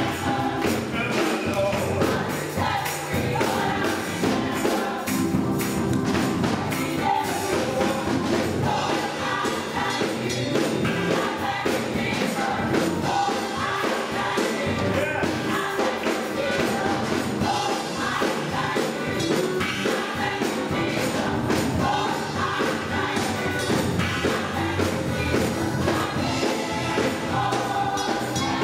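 A gospel choir singing with instrumental accompaniment and a steady beat.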